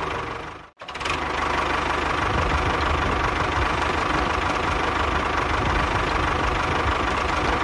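A steady engine running sound, cut off for an instant a little under a second in, then running on unchanged.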